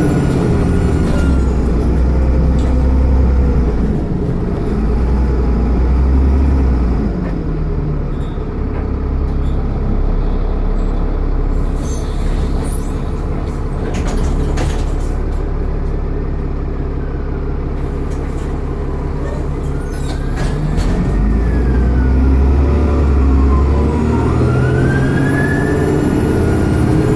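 Dennis Trident double-decker bus engine running, with a turbo whine that rises and falls in pitch several times. The engine note drops about a second in and climbs again about twenty seconds in as the bus pulls away. A few sharp clicks come about halfway through.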